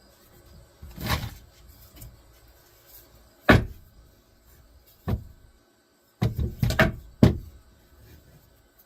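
Boards and tools being moved and set down on a workbench: a series of separate knocks and clunks, with a quick cluster of them near the end.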